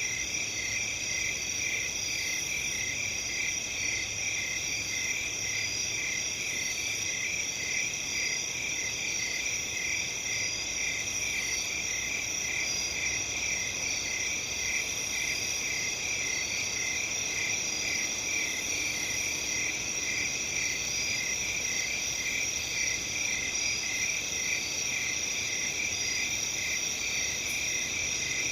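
Crickets chirping in a steady night chorus: a rapid, evenly pulsing chirp under higher continuous trills.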